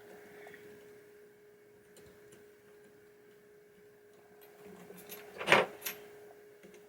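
Small metal slingshot parts and a hand tool handled on a pinball playfield: a few light ticks, then one sharp click about five and a half seconds in with a smaller one just after, over a faint steady hum.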